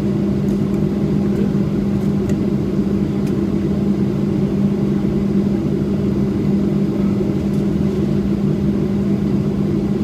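Boeing 737-700 cabin noise while taxiing after landing: the steady drone of the idling CFM56 jet engines and cabin air, with a constant low hum.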